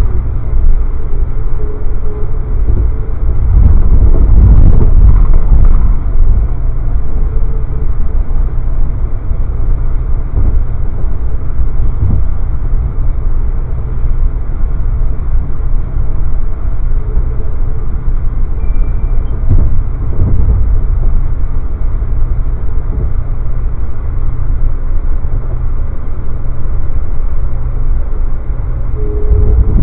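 Amtrak passenger train running at speed, heard from inside the coach: a steady low rumble of wheels on the rails that swells louder for a couple of seconds about four seconds in and again near the end.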